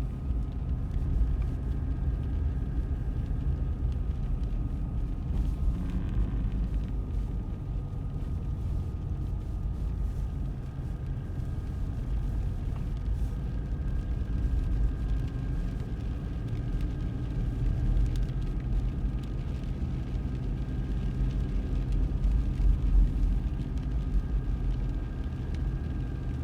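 Car driving on a snowy road: a steady low rumble of engine and tyres, with a faint steady whine above it.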